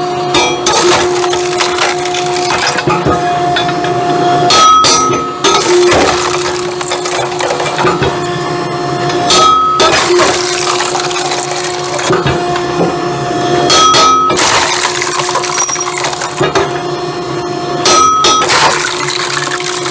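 Firewood separator machine running with a steady hum while split camping firewood clatters and breaks apart in it, in a cycle that repeats about every four to five seconds.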